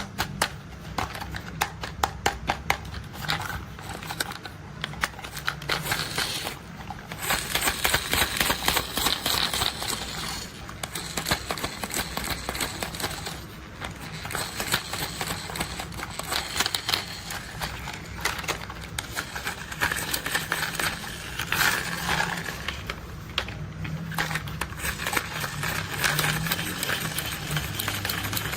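Rapid plastic clicking and rattling from toy construction vehicles being worked by hand, as from ratcheting toy mechanisms, going on and off in dense runs.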